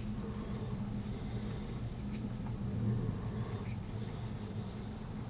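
Faint clicks and light handling noise from the metal tools of a Victorinox Swiss Army knife being handled, a few spaced clicks over a steady low hum.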